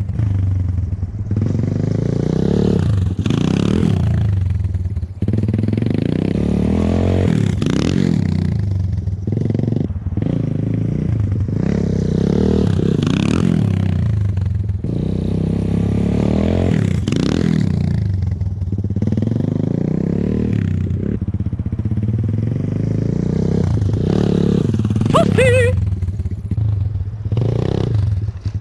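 Enduro motorcycle engine revving up and falling back again and again, its pitch rising and dropping every few seconds as it is ridden up a slope and over tyre obstacles.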